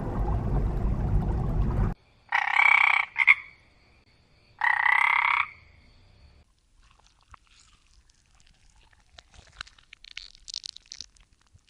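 A steady low rushing noise cuts off abruptly about two seconds in. Two short animal calls follow, each under a second long and about two seconds apart, then only faint scattered clicks.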